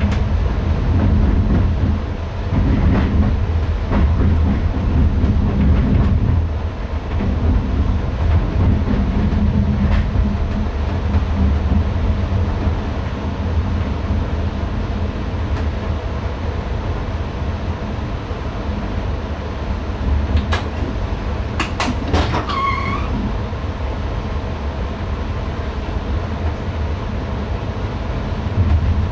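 Steady low rumble of an NS ICM (Koploper) electric multiple unit running on the rails, heard inside the driver's cab. About two-thirds of the way through come a few sharp clicks, then a brief rising tone that levels off.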